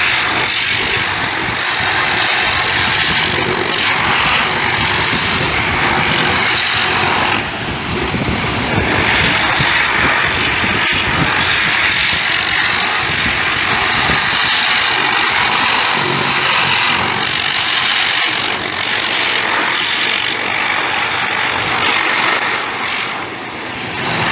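Pressure washer running, with a loud steady hiss of spray and a rough motor rumble beneath it; it dips briefly twice.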